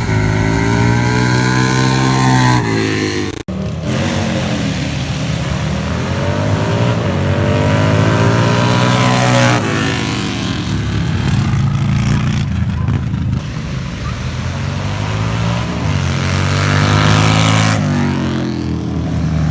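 Motorcycle engines at full throttle down a drag strip, pitch climbing for several seconds and dropping back as the bikes shift gears, twice over.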